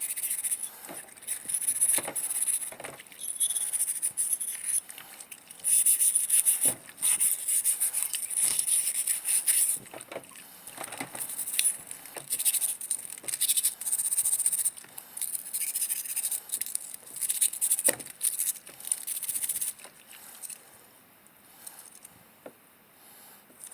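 Scraping strokes on the rusty sheet metal of an old Dietz oil lantern, coming in runs of a few seconds with occasional light knocks, dying down near the end.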